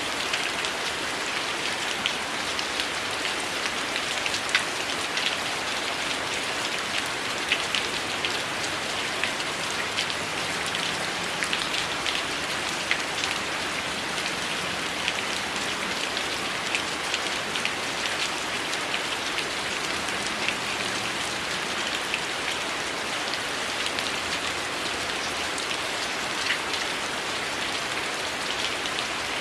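Heavy rain falling steadily, a dense even hiss with many individual drops ticking sharply through it. No thunder.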